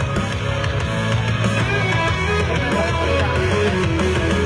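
Rock music with electric guitar over a steady bass line, an instrumental stretch between the song's sung lines.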